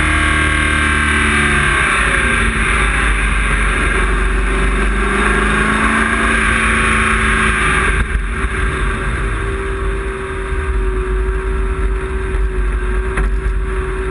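Race car engine heard from inside the cockpit, its pitch rising and falling with the throttle, with road and wind noise. About eight seconds in it eases to a steadier, lower drone.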